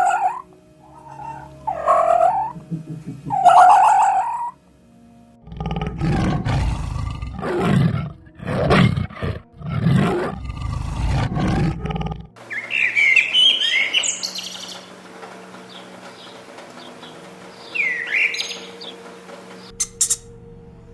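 Recordings of different animals one after another: three short pitched calls in the first few seconds, then a run of deep, rough calls, then bird chirps over a steady background hiss, and a few sharp clicks near the end.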